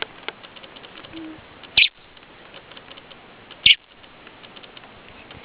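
A young wild bird giving two short, high-pitched calls, about two seconds apart.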